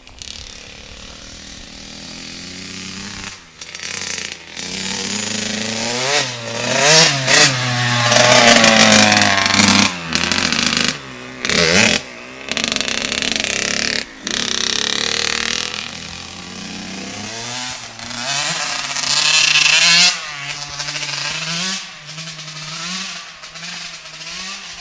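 Kawasaki 85cc two-stroke motocross bike engine revving up and down repeatedly under throttle, the sound cutting out abruptly several times. Near the end it settles into low, short throttle blips about once a second.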